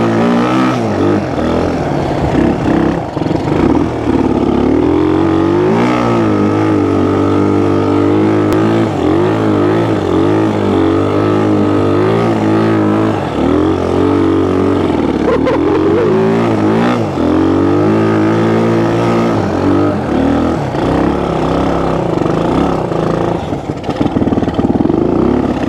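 1974 Honda XL175's single-cylinder four-stroke engine running hard, its pitch rising and falling over and over as the throttle is worked.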